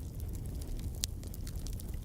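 Wood fire burning in a fireplace: a steady low rumble with scattered small crackles and one sharp pop about halfway through.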